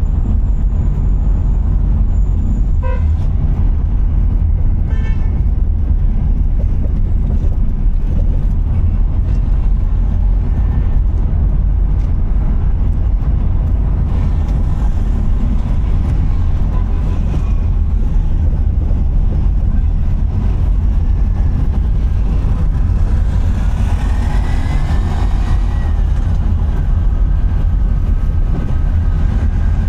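Steady low road and wind rumble from a car driving through town traffic. Short vehicle horn toots sound about three and five seconds in, and more pitched traffic sounds glide up and down near the end.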